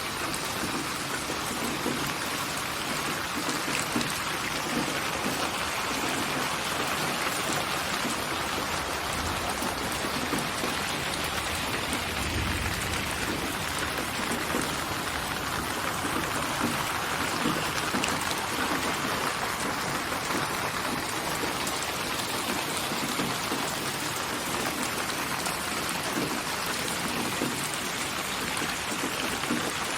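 Steady rain pattering on a surface, a dense even hiss of drops, with a brief low rumble about halfway through.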